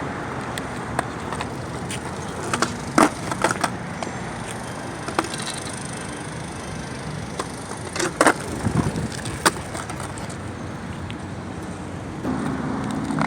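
Skateboard deck knocking and clacking on pavement during freestyle tricks: a dozen or so sharp wooden knocks at uneven intervals, the loudest about three seconds in and again around eight seconds, over a steady outdoor hiss.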